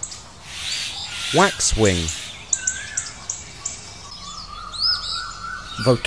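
Small birds chirping and calling in thin, high, short notes, several in quick series a few tenths of a second apart.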